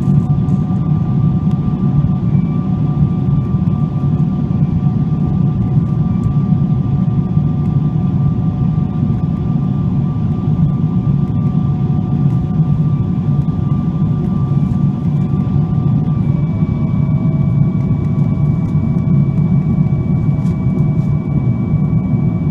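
Cabin noise of a Boeing 777-200ER with GE90 turbofan engines: a loud, steady rumble with thin engine whines on top, heard from inside the cabin. About two-thirds of the way through, the whines shift in pitch, one dropping slightly while a higher one comes in.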